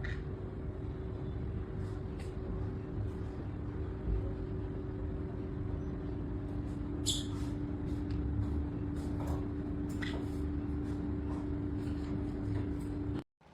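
A steady mechanical hum: a low rumble with a droning tone, with a few faint clicks and chirps over it, cutting off suddenly near the end.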